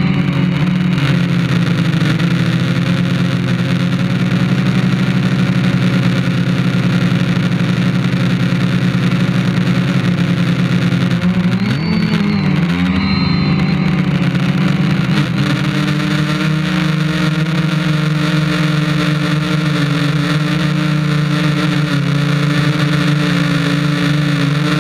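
IRIS quadcopter's electric motors and propellers running with a steady hum, heard close up from the drone itself; the pitch wavers briefly about halfway through as the motors change speed.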